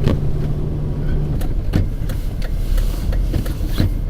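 Car driving on snowy, slushy streets, heard from inside the cabin: a steady low engine and road hum with scattered sharp clicks and knocks at irregular intervals.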